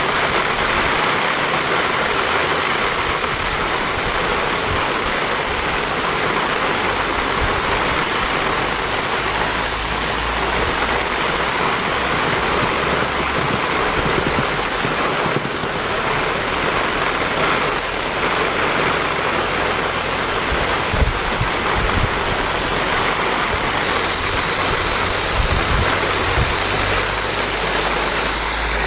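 Heavy rain pouring down steadily, a dense even hiss of water, with a low rumble that comes and goes underneath.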